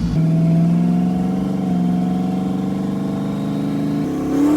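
Twin-turbo LS V8 engine of a Camaro pulling under throttle, its pitch rising slowly with a small step about a second and a half in, then dipping and climbing more quickly near the end.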